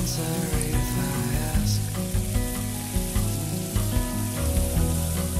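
Hot oil sizzling steadily in a wok as pan-fried catfish pieces and freshly added aromatics (scallions, ginger, garlic, chili) fry, with a metal spatula stirring them near the end. Background music plays underneath.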